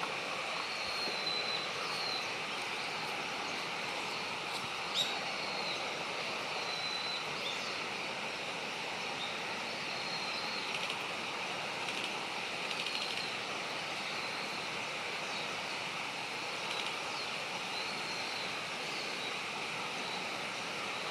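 Short, thin, high bird calls repeating every second or two over a steady outdoor hiss, with a single tick about five seconds in.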